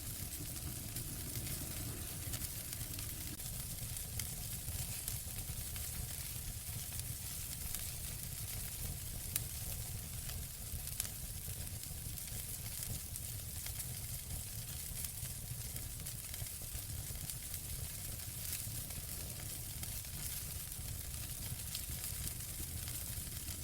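Wood fire burning in a fireplace: a steady hiss and low rumble, with scattered small crackles and a couple of sharper pops about halfway through.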